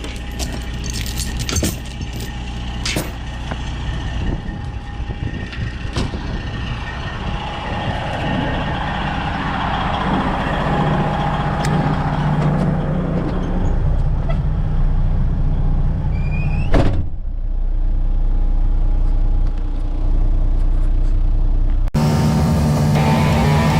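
Freightliner semi truck's diesel engine running as it pulls away with a lowboy trailer, the engine note rising and falling through the gears, with a sharp burst of sound about three-quarters of the way through. It cuts abruptly to rock music near the end.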